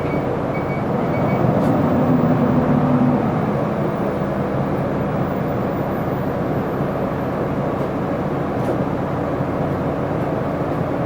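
Isuzu Erga city bus's diesel engine running under way, heard from inside the cabin with steady road and body noise. The engine note shifts about three seconds in.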